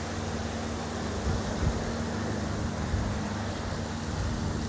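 An engine running steadily with a low hum, with a couple of low bumps about a second and a half in.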